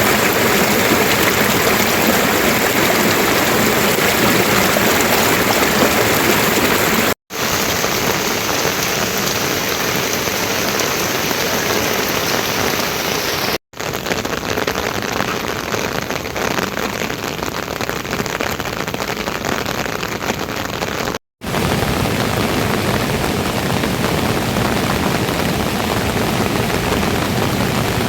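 Steady rain falling, a continuous hiss of drops. It comes in four stretches, each broken off by a brief moment of silence.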